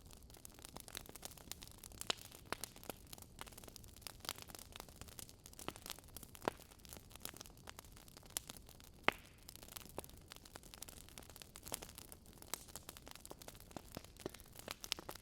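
Burning logs crackling in a fireplace: irregular sharp pops and snaps over a faint low hiss, the loudest pop about nine seconds in.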